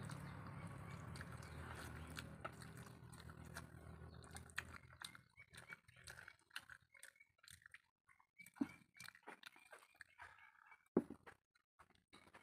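Faint eating sounds: wet mouth clicks and smacks from chewing rice and egg curry eaten by hand, with a couple of sharper clicks later on. A low steady hum fades out in the first few seconds.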